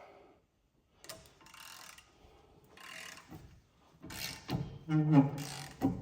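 Hand ratchet clicking in short spells, a long 1/2-inch drive ratchet turning the forcing screw of a hub puller to press out a front wheel hub, with louder low-pitched strained sounds in the last two seconds as the load builds.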